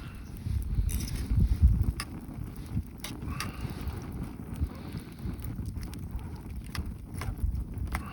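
Wind rumbling on the microphone, with scattered sharp clicks and cracks over it.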